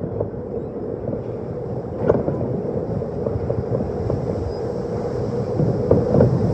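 Vintage R1/9-type subway car running through the tunnel, heard from inside: a steady rumble of wheels and running gear with a few sharp clicks and knocks, about two seconds in and near the end.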